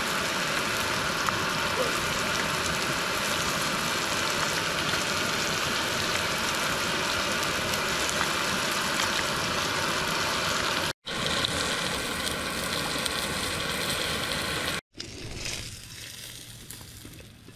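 Floured trout fillets and mushrooms sizzling as they fry in oil in a small pan over a canister camp stove, a loud, even sizzle. It breaks off suddenly twice, about eleven and fifteen seconds in, and after the second break the sizzle is gone and only a much quieter background remains.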